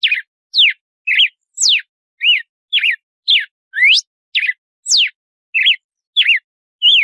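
Red-cowled cardinal (galo-de-campina) singing its 'açoite' song: a steady series of clear whistled notes, about two a second, some sweeping up, some sweeping down, and some rising and falling.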